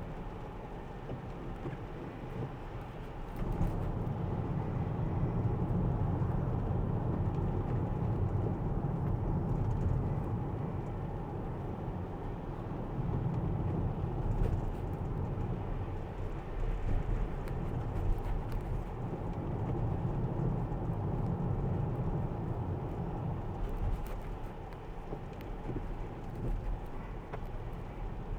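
Road and tyre noise of a Tesla electric car driving on a wet road, heard as a steady low rumble inside the cabin; it grows louder about three seconds in as the car picks up speed.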